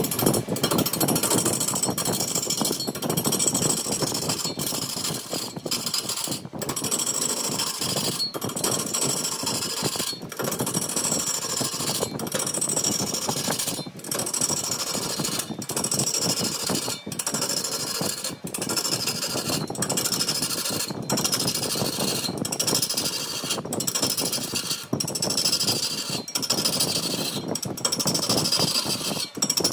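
Wood being turned on a lathe: a cutting tool working the spinning wood in repeated strokes, each broken by a brief pause and followed by a falling high whine.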